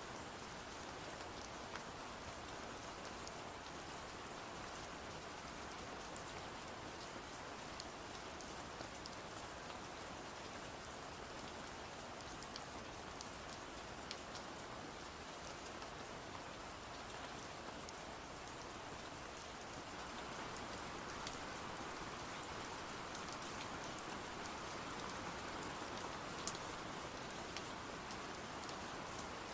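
Steady rain falling, with scattered faint sharp ticks, growing slightly louder about two-thirds of the way through.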